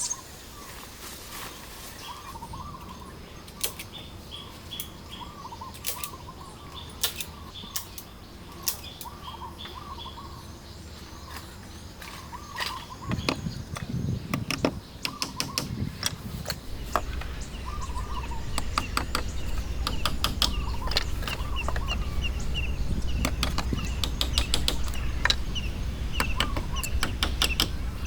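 Birds calling over and over with a short warbling call, among scattered sharp clicks and knocks. A low steady rumble grows louder from about halfway through.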